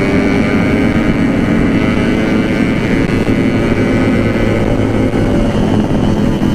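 Yamaha RX-King single-cylinder two-stroke motorcycle engine running under way at a fairly steady pitch and loudness.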